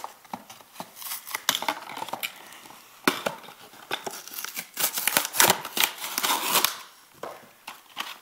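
Toy packaging being opened by hand to get the spinning tops out: irregular crinkling, tearing and sharp plastic clicks, busiest in the second half.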